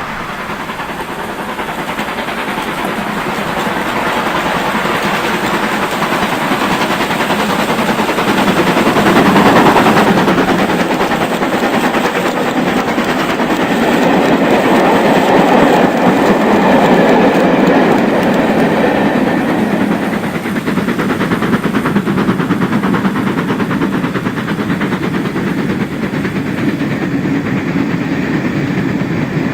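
00 gauge model train running on the track: a steady rolling rumble and clatter of wheels on rail, swelling louder twice as it passes close by.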